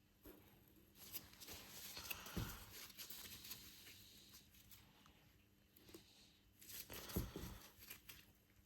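Near silence with faint rustling and scraping as a rear brake caliper piston is pushed by hand into its brake-fluid-lubricated bore: a longer stretch about a second in and a short one near the end.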